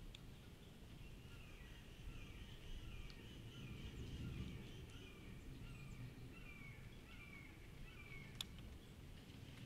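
Faint bird calls in woodland: a string of short, falling chirps, about one or two a second, over a low rumble. There is a single sharp click near the end.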